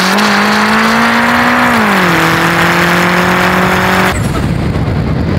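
Turbocharged Mitsubishi Eclipse engine pulling hard under boost, its note climbing a little, then dropping about two seconds in and holding steady. About four seconds in, the engine note breaks off into a rough burst of noise lasting about a second.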